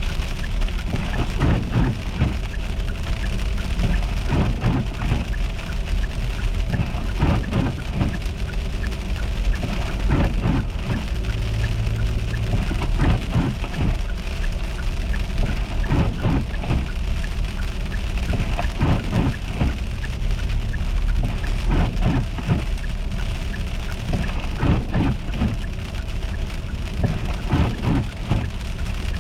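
Sleet or freezing rain pattering and ticking irregularly on a car's body and glass, over a steady low rumble.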